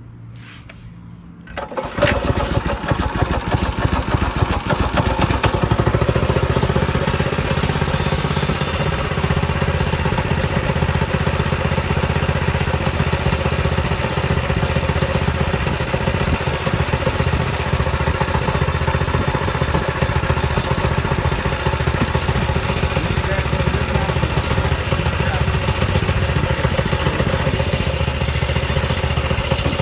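A Predator 6.5 hp single-cylinder four-stroke engine on a Baja mini bike starts about two seconds in, then runs steadily.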